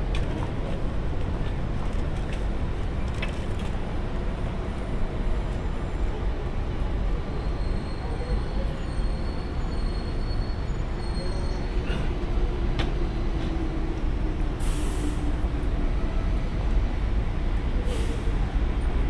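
JR Freight EH200 electric locomotive and its container wagons rolling slowly along the freight tracks: a steady rumble of wheels and running gear, with short hisses about fifteen and eighteen seconds in.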